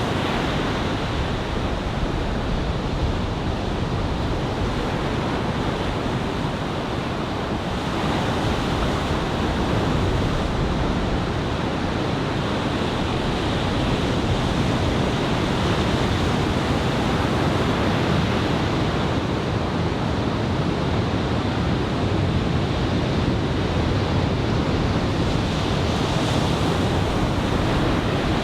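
Ocean surf from a head-high typhoon swell breaking steadily, a continuous wash of noise that swells slightly now and then, with some wind on the microphone.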